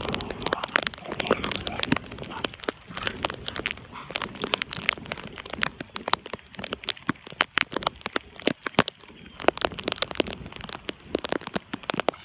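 Rain: a dense, irregular crackle of sharp ticks from drops landing close by, thinning out about eight seconds in, then picking up again.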